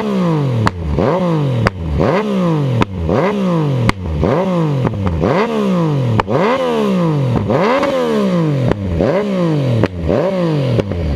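Yamaha FZ-09 inline-three engine with an M4 aftermarket exhaust, blipped about once a second, about ten times. Each blip rises sharply in pitch and falls away, and many end in a sharp crack from the exhaust, the pop that throws flames.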